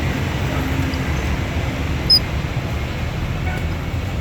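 Steady low rumble of background noise, with one short, sharp high-pitched click about two seconds in.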